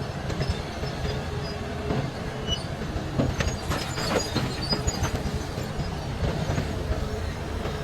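Large Hitachi hydraulic excavator at work: a steady low diesel rumble, with a cluster of metallic clanks and short high squeaks around the middle.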